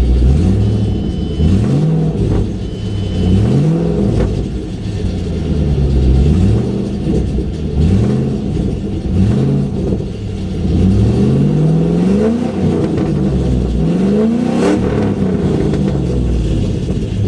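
2008 Ford Mustang GT's 4.6-litre three-valve V8 idling and being revved repeatedly, the pitch sweeping up and falling back about eight times. It runs on a freshly fitted set of MSD Blaster coil-on-plug ignition coils, which the owner hears as smoother, with the earlier misfire gone.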